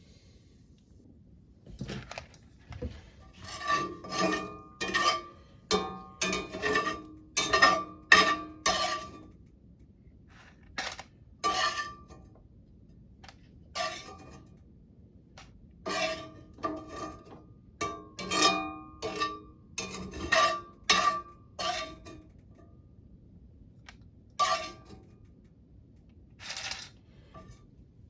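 Metal cookware and utensils clinking, knocking and scraping in many short irregular bursts with a ringing metallic tone, busiest in two spells.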